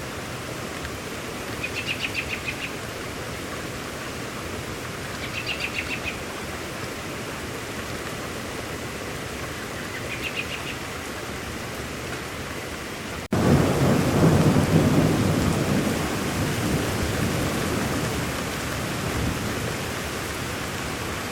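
Steady rain with a bird giving a short trilled call three times. About two-thirds of the way through, an abrupt jump to heavier rain and a loud rolling thunder rumble that fades over several seconds.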